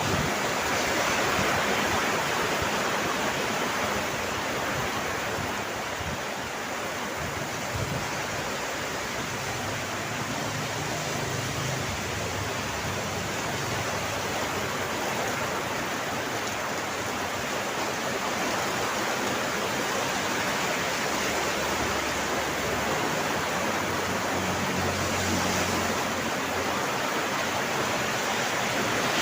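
Steady rainfall, a dense even hiss that holds at the same level throughout.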